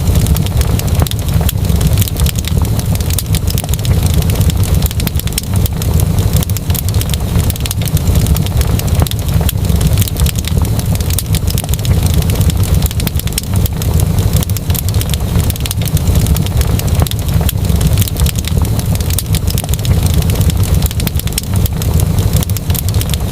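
Wood fire burning in a fireplace: a steady low rumble with dense crackles and pops throughout.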